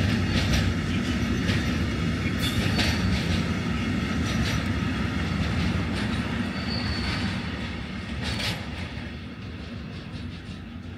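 A train running past on the rails: a steady rumble with repeated wheel clacks over rail joints and a brief high squeal about seven seconds in, then fading away over the last few seconds.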